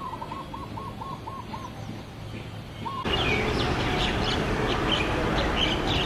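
A bird calls a quick run of about seven short, even notes, with one more note just before a cut. About three seconds in, the sound switches to a louder outdoor ambience: a steady rush of background noise with many small birds chirping in quick high notes.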